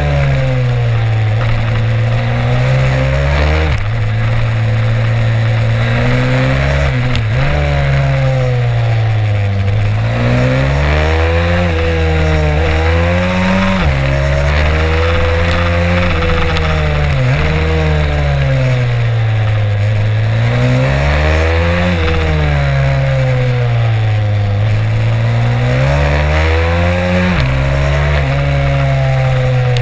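Stomp 140 pit bike's single-cylinder four-stroke engine at race pace, heard onboard. The pitch climbs and falls over and over as the throttle is opened and closed through the corners, with several sudden drops where it shifts gear.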